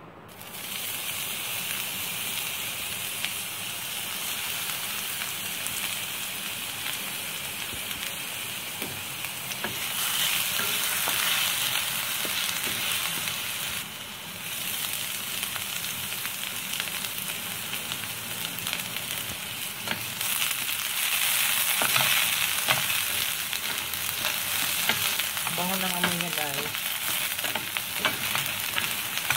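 Chopped garlic and onion sizzling in hot oil in a frying pan, stirred now and then with small clicks of the utensil. The sizzle starts at once, grows louder about ten seconds in, dips briefly and swells again later.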